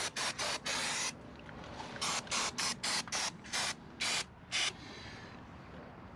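Aerosol chain cleaner sprayed onto a motorcycle drive chain in short hissing bursts, several a second, in two quick runs separated by a pause of about a second, stopping a little before the end.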